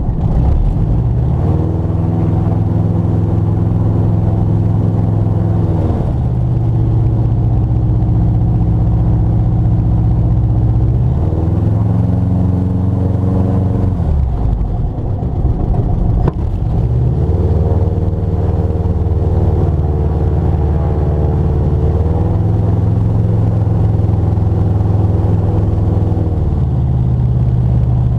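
Motor glider's piston engine running at low power, its pitch stepping down and up several times as the throttle is moved, with a brief dip and a click around the middle.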